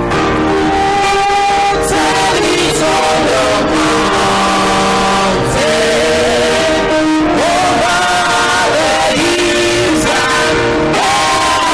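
A choir singing a sustained, flowing melody over live instrumental accompaniment.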